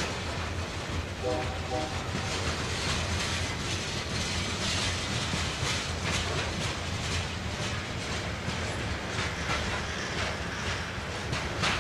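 Union Pacific freight train's cars rolling past: a steady rumble with the clickety-clack of wheels over rail joints.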